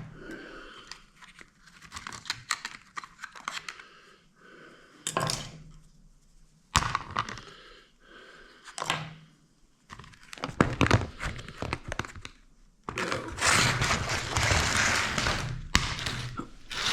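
Scattered clicks, knocks and scraping of tools and metal parts as seals are worked out of a tractor's hydraulic lift cylinder. About three seconds of steady rushing noise comes near the end.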